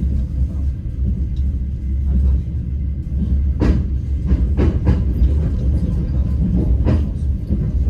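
Passenger train carriage rumbling along at speed, with a few sharp knocks of the wheels over rail joints, two of them close together as a clickety-clack.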